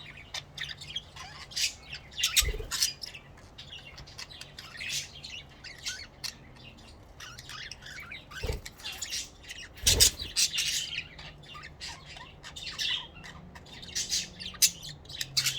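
Pet budgerigars chattering in many short chirps and squawks, with a few sharp knocks in between.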